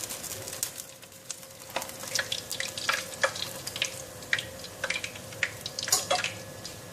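Hot oil crackling around battered chicken wings frying in a pan, with sharp irregular pops and spatters.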